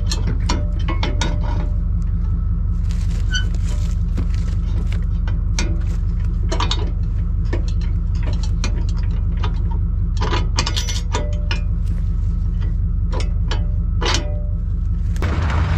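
A vehicle engine idling steadily, with many irregular metallic clicks and clinks over it, and a broad rush of noise starting near the end.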